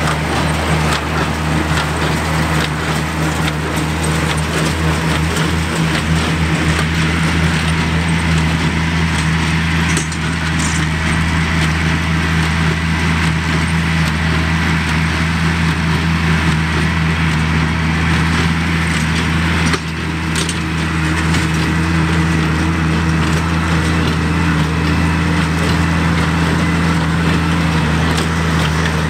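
Oliver 770 tractor's six-cylinder engine running steadily under load, driving a New Holland 276 Hayliner small square baler through the PTO, with the baler's continuous mechanical clatter and crunching of hay.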